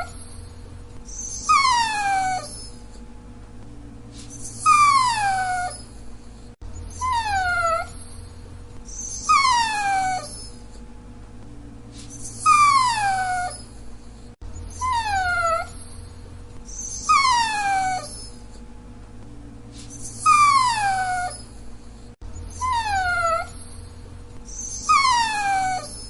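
Dachshund whining: a string of short whines, each sliding down in pitch and lasting under a second, about one every two to three seconds.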